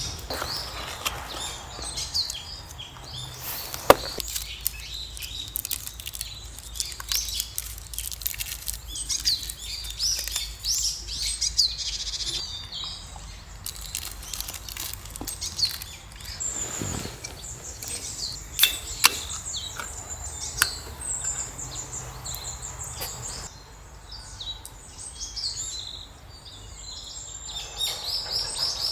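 Several small birds chirping and singing, with many short, high calls overlapping. A few sharp clicks or knocks sound now and then, loudest about four seconds in.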